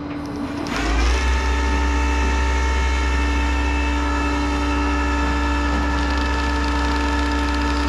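Tow truck's hydraulic system running, as when operating the bed or winch to unload a car: it spins up with a rising whine about a second in, holds a steady hum and whine, then winds down near the end.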